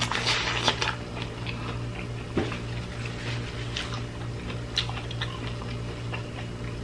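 A person biting into corn on the cob, a dense crunch of kernels in the first second, then chewing with scattered clicks and smacks. A steady low hum runs underneath.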